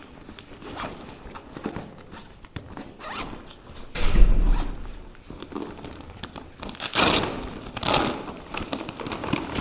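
Bags being handled at a pickup counter: zip-like scraping and rustling, with a loud bump about four seconds in and two sharper swishes near the end.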